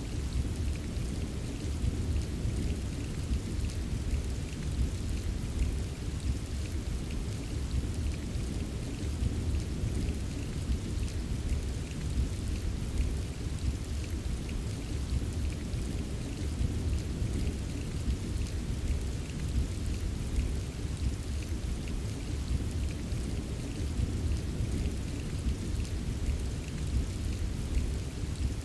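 Steady rain ambience: an even patter of drops over a constant low rumble, with no distinct thunderclap or change in level.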